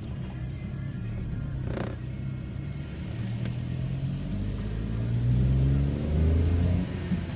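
Car engine running while driving, its pitch rising as it revs up about four seconds in and getting louder for the next couple of seconds. A short knock about two seconds in.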